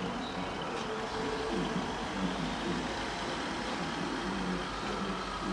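A diesel train engine running steadily under station background noise, with a faint low hum that comes and goes.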